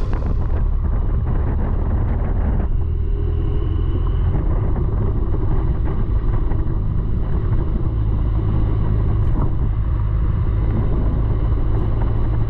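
BMW F800GS parallel-twin engine running steadily while the motorcycle is ridden, heavy in the low end, with road noise.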